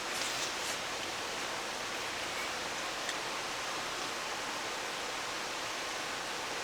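Steady rushing of a valley stream, with a few faint rustles in the first second.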